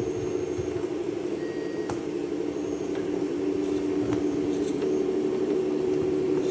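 Steady engine-running sound played through the small speaker of an RC scale Sd.Kfz. 251 halftrack's sound unit, growing slightly louder toward the end.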